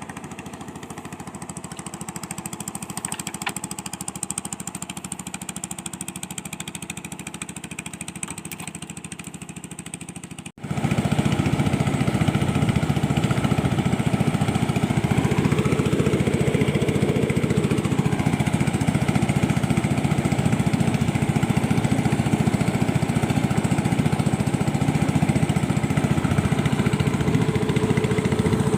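A small engine running steadily, quieter at first, then louder after an abrupt change about ten seconds in, with a brief rise and fall in engine pitch a few seconds after that.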